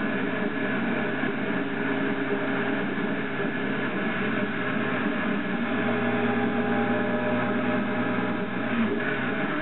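Motorcycle engine running on the move over a steady hiss of wind and road noise. Its note steps down about halfway through and rises again near the end.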